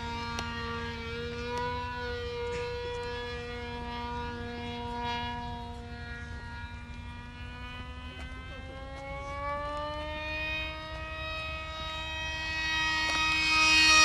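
Radio-controlled F-16 model jet's engine whining steadily in flight. The pitch rises between about 8 and 10 seconds in, and the sound grows much louder near the end as the model comes closer.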